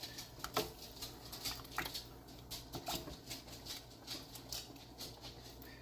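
Faint, irregular clicks and small taps at a pot of chicken stew as cream is added and stirred in, over a low steady hum.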